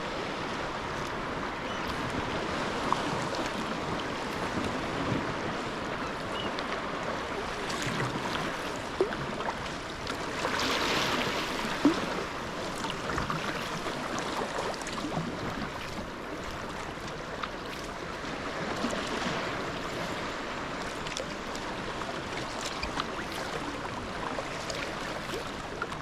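Sea kayak moving through the sea: paddle blades dipping and splashing, water washing along the hull, with a few short knocks.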